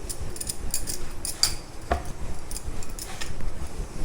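Rolling pin working a flour-dusted ball of pulka dough on a board, making light, irregular clicks and taps.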